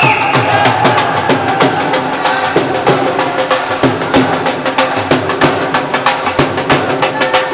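Live music with a quick, steady drumbeat of sharp strokes over a held tone.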